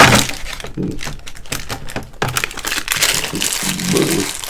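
Takeout food packaging being handled: a run of irregular crinkling and rustling with small clicks and knocks, as containers and wrappers are moved and opened.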